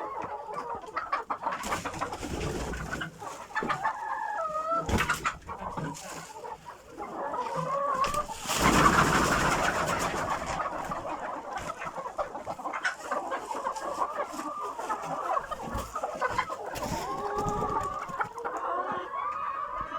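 Chickens clucking and calling to one another in many short, overlapping calls. About eight and a half seconds in there is a loud burst of rustling noise lasting a second or two.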